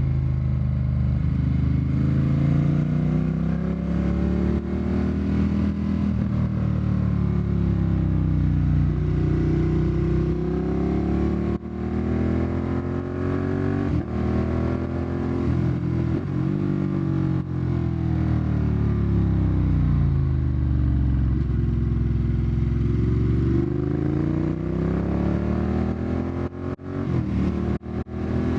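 Ducati Monster 1200's L-twin engine and exhaust under riding load, the revs rising and falling again and again as the bike accelerates and slows. Near the end the engine note drops out briefly a few times.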